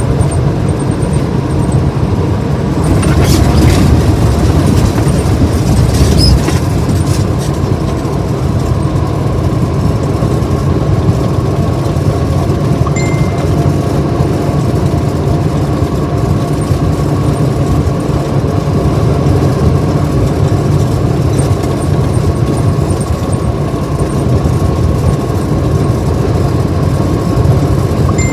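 Moving car at highway speed: a steady, loud low rumble of road and engine noise with a faint steady whine. It swells with a few clicks a few seconds in.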